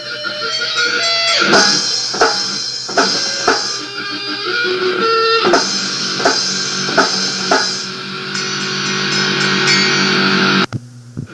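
Rock band playing: electric guitar and drums, with regular drum hits, ending on a held chord that cuts off abruptly near the end, leaving a low hum.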